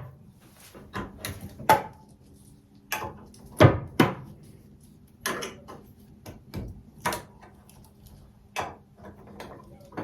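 A series of separate knocks and clunks, about a dozen spread over ten seconds, some with a short ring: objects being handled and set down on a hard surface. A faint steady hum runs underneath.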